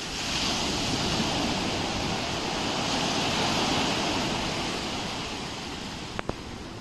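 Ocean surf: a wave's rush of foam swells in quickly at the start, holds strong, then slowly fades as it washes out. A short click sounds near the end.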